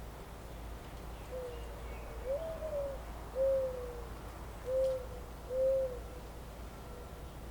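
A bird's low hooting call: five soft hoots in a row, the second sliding up in pitch and back down, over a steady low background hum.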